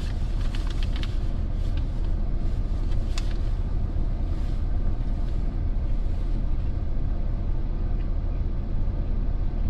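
Truck engine idling with a steady low rumble, heard from inside the cab. A few light clicks come in the first second and about three seconds in.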